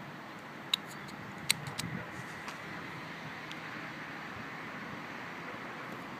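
Steady hum of road traffic, with a few sharp clicks about a second in.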